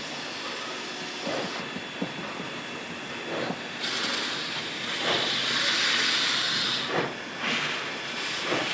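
Steam locomotive letting off steam: a continuous hiss broken by irregular short puffs, with a louder, longer hiss from about four seconds in that lasts some three seconds.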